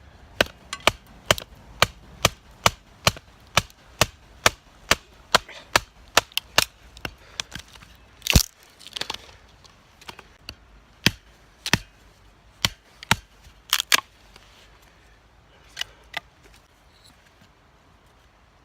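Flint struck against a traditional Japanese fire steel (hiuchigane) to throw sparks onto char cloth. There is a steady run of sharp clicks, about two a second, then one louder strike about eight seconds in, then slower, scattered strikes that stop about sixteen seconds in.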